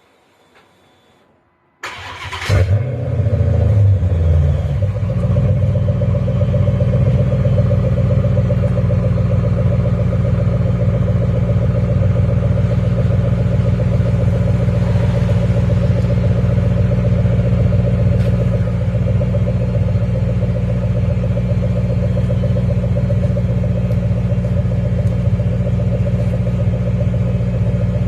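Chrysler 300C's 5.7 Hemi V8 starting about two seconds in, flaring briefly, then idling steadily, heard through a Cherry Bomb Extreme muffler and Cherry Bomb glasspack exhaust.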